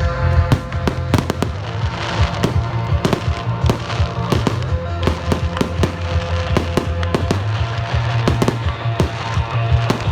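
Fireworks going off in quick succession, many sharp bangs and cracks, over music with a heavy bass line.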